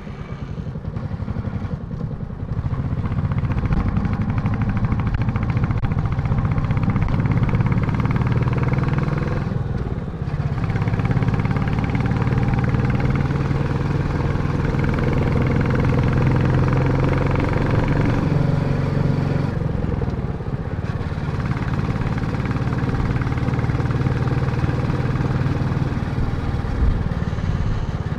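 Royal Enfield Classic motorcycle engine and exhaust running steadily, with two brief dips in the sound about ten and twenty seconds in.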